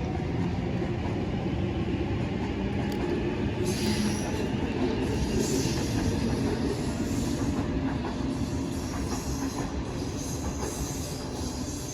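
Sydney Trains electric suburban train running into the platform with a steady rumble. A high squeal from the wheels sets in about four seconds in and comes and goes as it slows.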